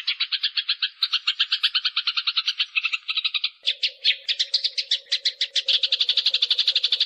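Eurasian tree sparrows in a fight, giving a rapid, unbroken string of harsh chirps at about ten a second. A faint steady hum joins about halfway through.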